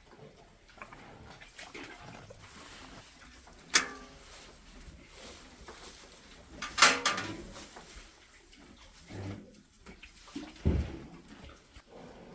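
Two short, loud calls from a domestic animal about three seconds apart, the second the louder, followed by a dull low thump near the end.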